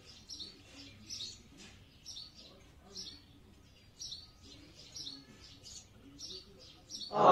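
Birds chirping, short high chirps repeating about once or twice a second. Right at the end a much louder pitched sound suddenly cuts in.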